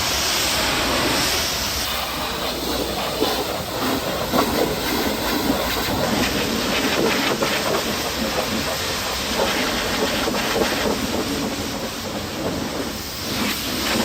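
Pressure washer spraying water onto a truck: a steady hiss with a crackling spatter that comes and goes slightly.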